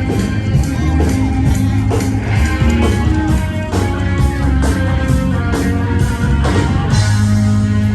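A live rock band playing, with guitar over a steady drum beat.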